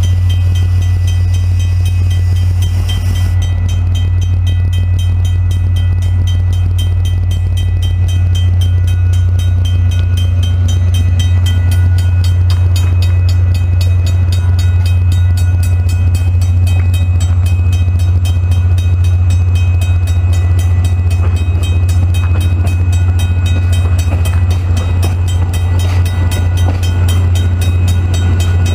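Via Rail passenger train at a railway level crossing: a loud, steady low rumble throughout, with a fast, evenly repeating high ringing over it.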